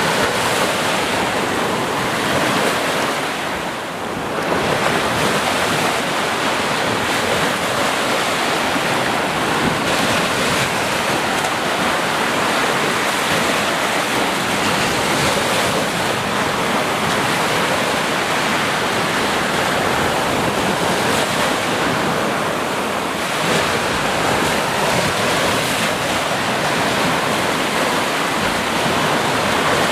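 Sea surf: waves washing onto a shore in a steady, dense rush, with a brief lull about four seconds in.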